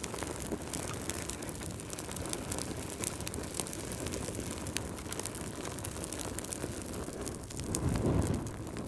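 Fireplace fire crackling, with irregular sharp pops over a steady low rush of flames that swells louder near the end.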